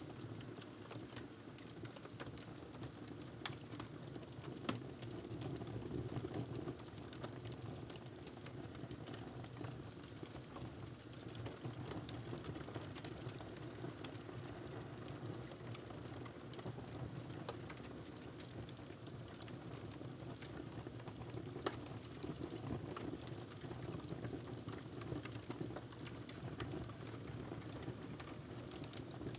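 Wood fire crackling in a fireplace: a steady low rumble with irregular sharp pops and snaps, a few louder ones standing out.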